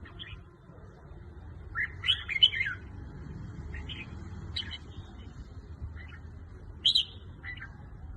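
Red-whiskered bulbul singing: short, bright warbled phrases in bursts, the loudest about two seconds in and another near the end, over a low steady hum.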